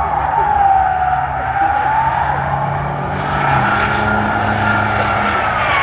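Truck tires squealing, a sustained high squeal that slowly wavers in pitch, over an engine held at high revs that steps up in pitch about two seconds in and again midway, typical of a burnout at the drag strip.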